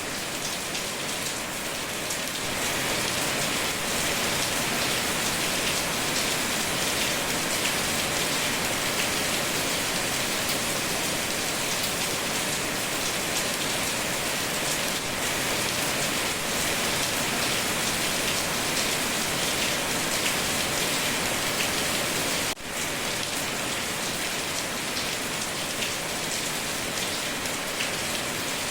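Steady, heavy rainfall pattering densely on surfaces, with a momentary drop in level about three quarters of the way through.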